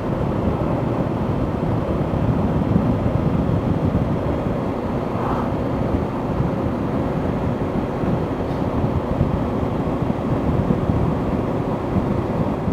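Motorcycle riding at a steady cruising speed: the engine runs evenly under a heavy rush of wind over the microphone.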